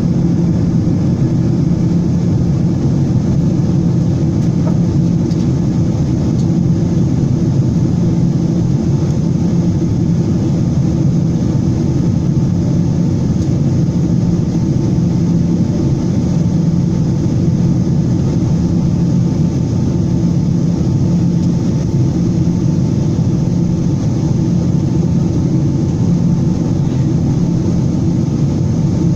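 Airliner cabin noise: the steady sound of the jet engines and the air rushing past the fuselage, heard from inside the passenger cabin as the aircraft climbs out. It is a loud, even, deep noise with a faint low hum and no change in pitch or level.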